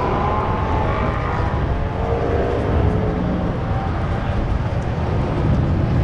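Steady low rumble of a moving tram ride, with faint engine notes gliding up and down in the first few seconds.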